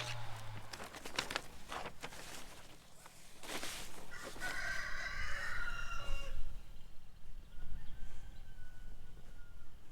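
A rooster crowing once, a call of about two seconds in the middle, after a few sharp knocks and clatter from work nearby.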